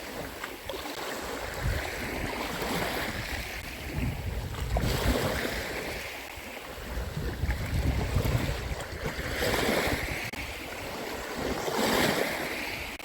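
Sea waves washing onto a beach, swelling and ebbing every few seconds, with wind buffeting the microphone.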